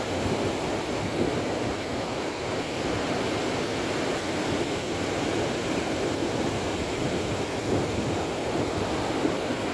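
Rough sea surf breaking and churning steadily, with wind on the microphone.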